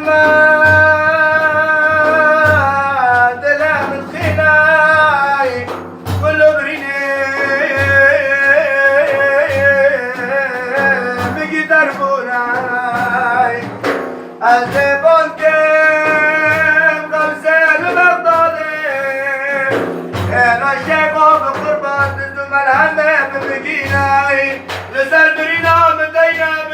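A male voice sings a madih, a religious praise song, in long ornamented phrases with wavering held notes. A low drum beats steadily underneath.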